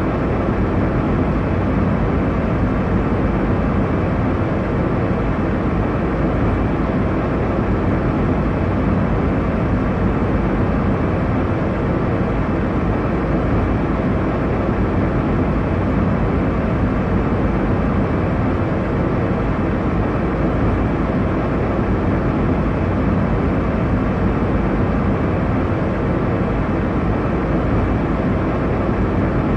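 Steady airliner cabin noise in flight: a constant deep rush of engine and airflow with a faint low hum, unchanging throughout.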